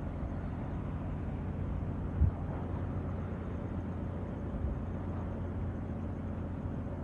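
Steady low rumble of night wind with waves, with a brief low thump about two seconds in.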